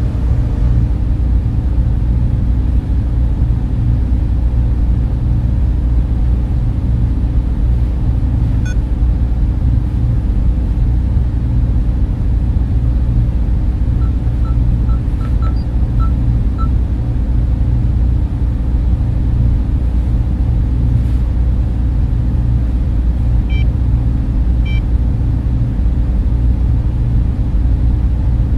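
Server room equipment and cooling fans running, a steady low hum and rumble with no change in level. A few faint short blips sound over it now and then.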